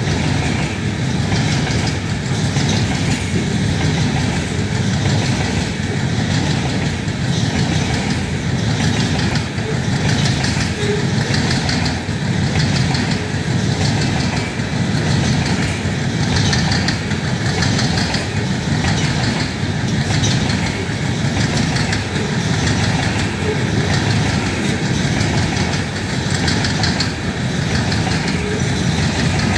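Freight train of loaded-trash hopper cars rolling past close by: a steady rumble of steel wheels on rail with a repeating clatter as the wheelsets pass over the rail joints.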